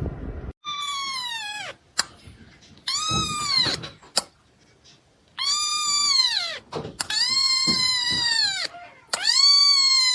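A cat meowing loudly and insistently: five long meows of about a second each, each dropping in pitch at its end.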